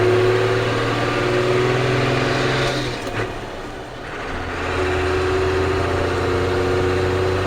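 Ford CF7000's 6.6L Brazil diesel engine running. Its note fades briefly about halfway through, then comes back steady at a lower pitch.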